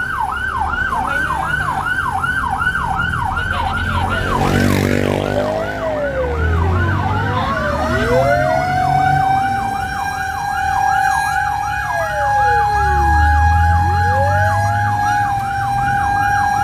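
Fire engine's siren yelping in fast falling sweeps, about three a second, while a second siren tone glides slowly down and up and then holds steady. The truck's engine rumbles underneath.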